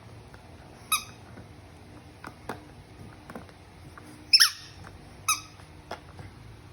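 Squeaky chew toy squeezed in a shih tzu's mouth: three short squeaks, the loudest about two-thirds of the way through, with soft clicks of the toy being bitten in between.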